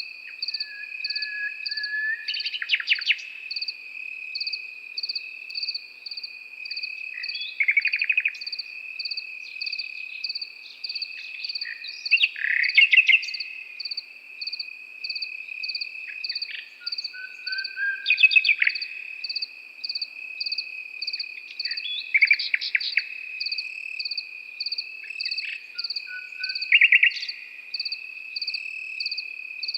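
A nightingale sings short phrases every few seconds, each a held whistle followed by rapid repeated notes. Under it, crickets keep up one steady trill and a higher chirping about twice a second.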